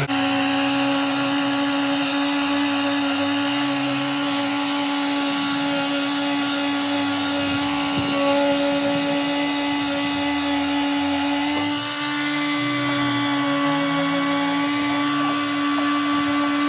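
Electric sander running steadily, sanding down body filler with coarse paper. A constant motor whine, with a lower hum underneath that wavers as the sander is worked over the surface.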